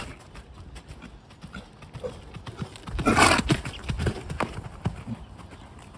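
A horse's hooves clip-clopping on the arena surface, with a loud rough burst of noise about three seconds in.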